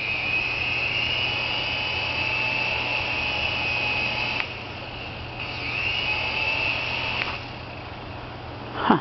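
Syma S107 mini helicopter's small electric rotor motors whining, running for about four seconds, cutting out, then running again for about two seconds.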